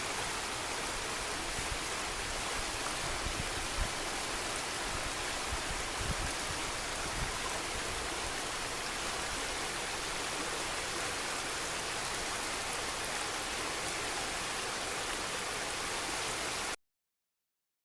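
Steady rushing of a flowing river, an even hiss of moving water, which cuts off suddenly near the end.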